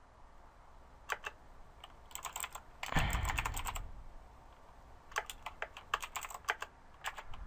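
Computer keyboard typing in short bursts of key clicks, with a louder dull thump about three seconds in.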